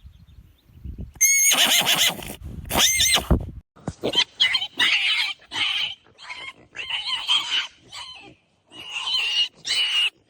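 Animal calls: two high, wavering calls, then a run of shorter calls.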